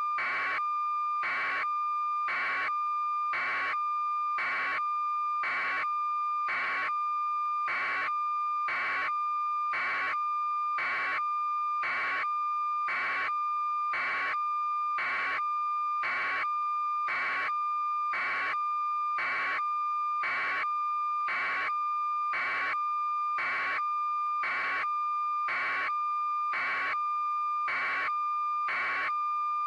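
A steady electronic tone with a pulse about once a second, repeating evenly at constant loudness.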